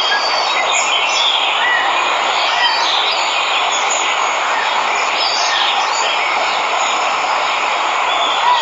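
Steady rush of falling water from a waterfall, with birds chirping and whistling on top.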